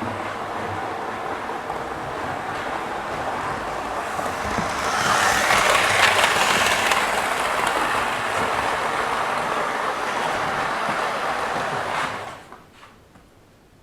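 OO gauge model train running along the track with a steady rushing, rattling noise. It grows louder as it comes close about five seconds in, then falls away sharply near the end.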